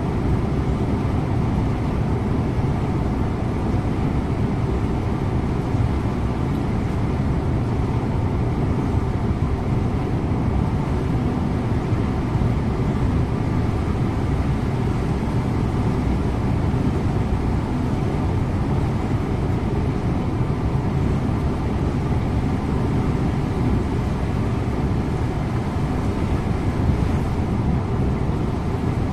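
Scania InterLink coach on the move: steady engine drone and road noise heard from inside, with no change in pitch or level.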